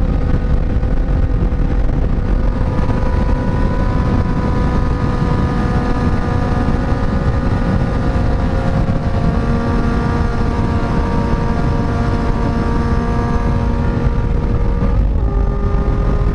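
Kawasaki inline-four sport motorcycle engine running at a steady cruise, its note drifting slowly, over heavy wind rumble on the rider's microphone. About fifteen seconds in, the engine note drops to a lower pitch.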